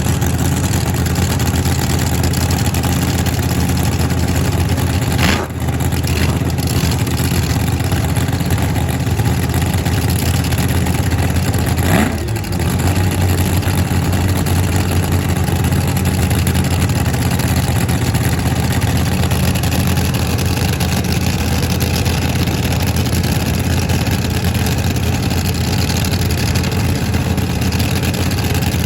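Drag-racing car engine running loudly and steadily, with two brief dips about five and twelve seconds in.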